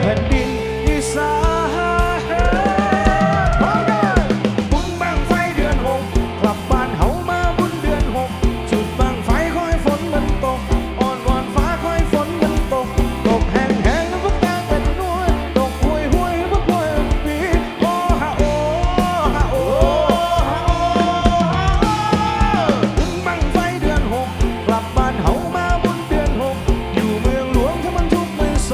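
Live rock band music with a drum kit keeping a steady beat under a gliding melodic lead line, with no sung words.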